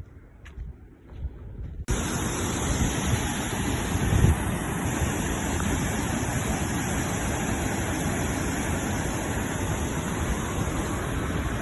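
Steady loud rush of water, starting abruptly about two seconds in, with a brief louder surge about four seconds in.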